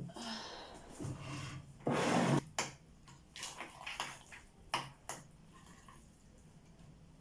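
Kitchen handling sounds of breakfast being made: dishes and utensils knocking and clinking, with a short burst of rushing noise about two seconds in.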